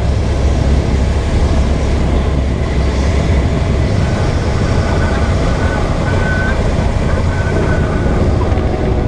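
A moving vehicle's steady low rumble, with a faint high tone coming and going in the middle.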